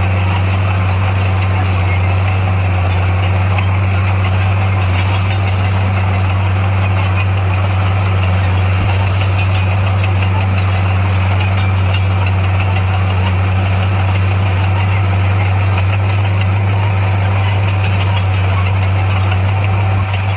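Diesel engine of a heavy earthmoving machine running steadily at a constant low pitch.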